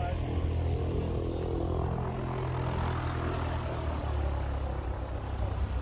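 Small propeller airplane's piston engine running steadily, its pitch dropping somewhat about four seconds in.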